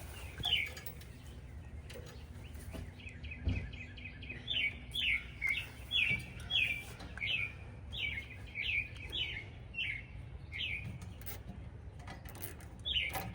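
A small bird chirping over and over, short falling chirps about twice a second, over a low steady background rumble.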